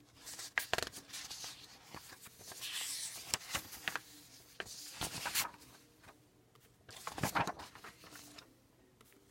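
Paper and pen handling during proofreading: soft rustling and scratching with scattered clicks and taps, and a louder handling noise about seven seconds in.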